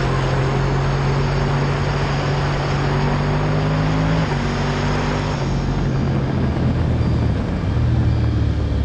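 Motorcycle engine running while riding, with steady wind and road noise; the engine note shifts in pitch a few times.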